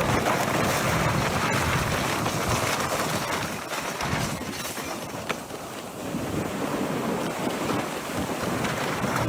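Strong wind roaring on the microphone over breaking sea waves, heard from aboard a ship, with one short knock a little past halfway.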